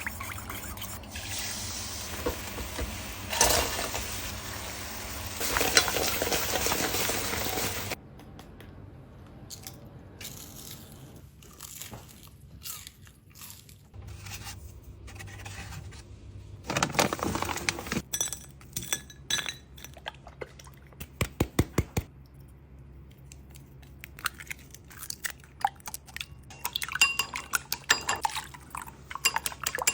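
Kitchen preparation sounds: a steady rushing noise for about the first eight seconds, then scattered clinks and taps of bowls, dishes and utensils, with a few runs of quick, even taps.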